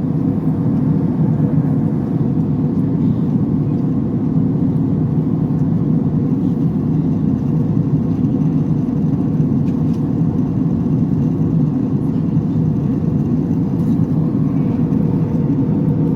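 Airliner cabin noise in flight: the steady low rumble of the jet engines and rushing air, heard from inside the passenger cabin.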